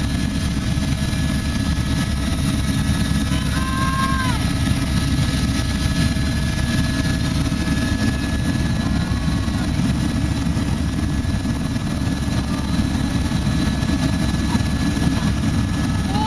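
Helicopter in cruise flight, heard from on board: steady, loud engine and rotor noise that does not change.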